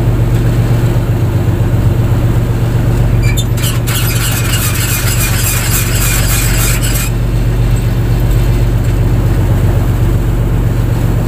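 Fishing boat's engine running steadily with a low hum. From about three and a half seconds in, a loud high-pitched hissing, rattling noise lasts a few seconds and then cuts off suddenly.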